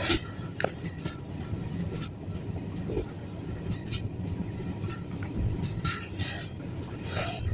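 Passenger train running across a river rail bridge, heard from on board: a steady low rumble of wheels on rail, with a few sharp clanks and several short hissing swishes.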